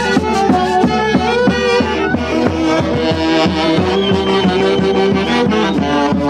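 Live Andean folk orchestra playing a lively festival tune: several held melody lines over a steady, driving beat.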